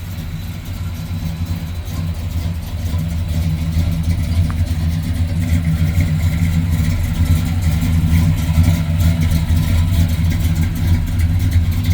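1964 Chevrolet Impala's V8 idling steadily with an even, low exhaust rumble, growing gradually louder.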